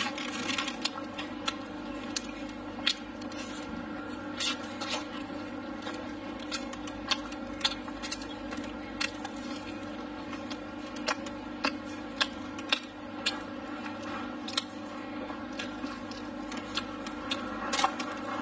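Close-up eating sounds: mouth-clicks and lip smacks from chewing pork ribs and greens, with light chopstick taps, irregular and about one or two a second. A steady hum runs underneath.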